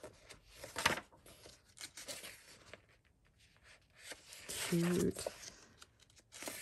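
Paper pages of a paperback coloring book being turned: a few crisp swishes and rustles of paper, the sharpest about a second in.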